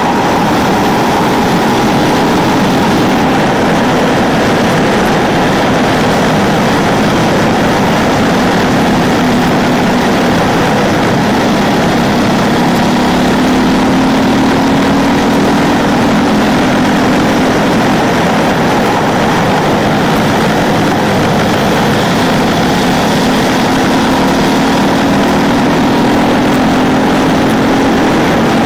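Ducati 999's L-twin engine running at speed under a steady rush of wind noise. The engine note rises slowly twice, about halfway through and again near the end, as the bike accelerates.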